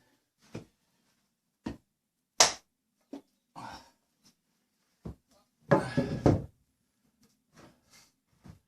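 Scattered knocks and clatter of timber and tools being handled: single sharp knocks spaced a second or so apart, with a longer run of clattering about six seconds in.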